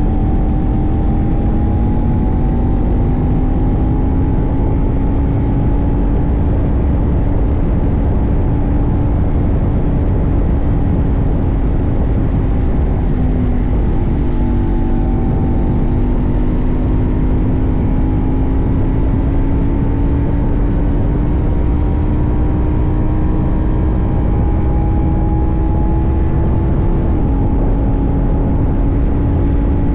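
CFMoto 800NK's parallel-twin engine running under steady load while riding, its note climbing slowly, with a short change in pitch about halfway through and another near the end, over wind and road rush.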